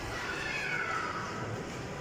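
A child's high voice calling out in one long, falling squeal that drops in pitch over about a second, over the steady hubbub of a busy indoor play hall.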